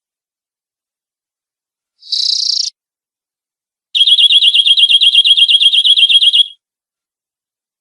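Domestic canary singing: a brief high phrase about two seconds in, then a rapid, even trill of roughly a dozen notes a second lasting about two and a half seconds.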